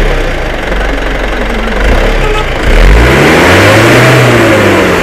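Truck engine running low, then revved once about halfway through: the pitch rises, peaks and falls back.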